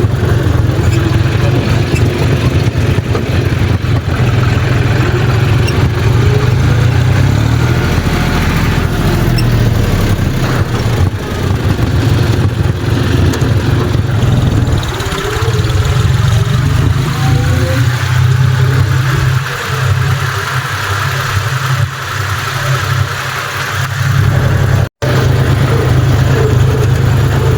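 Tractor engine running steadily, with a strong low hum. Its low note thins out for several seconds past the middle, then comes back after a brief cut-out.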